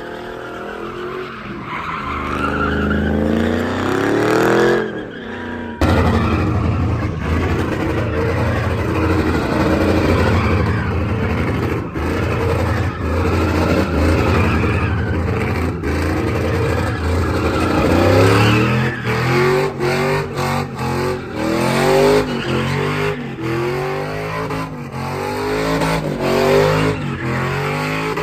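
Vehicle engine revving hard while the tyres skid and squeal through a slide. The revs climb over the first few seconds and break off about six seconds in. They are held high for about twelve seconds, then rise and fall repeatedly, about once a second, near the end.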